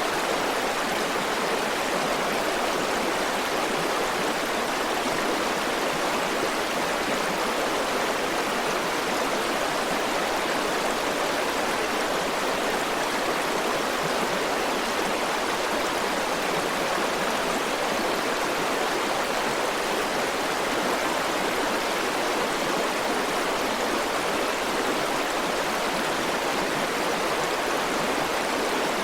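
River water flowing over stones in a steady, even rushing hiss, unchanging throughout.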